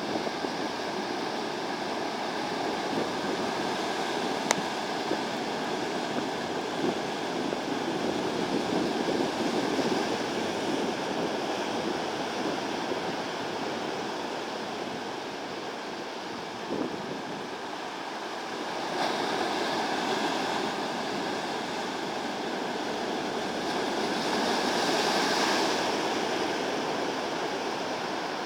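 Typhoon-driven surf breaking on a beach: a continuous wash of wave noise that swells louder about two-thirds of the way through and again near the end.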